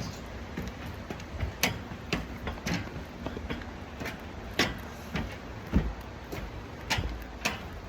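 Footsteps climbing outdoor stairs: irregular sharp knocks, about one a second, over a steady low rustle.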